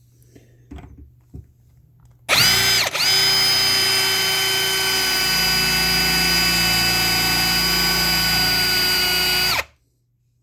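Cordless drill running at full speed while drilling out a rivet in an air conditioner's mounting bracket with a high-speed steel bit. It starts about two seconds in with a brief stutter, holds a steady whine for about seven seconds, then stops suddenly.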